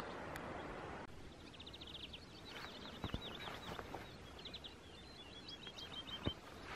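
Faint outdoor background, then from about a second in a small songbird singing quick runs of high chirps and trills. Two soft knocks sound in between.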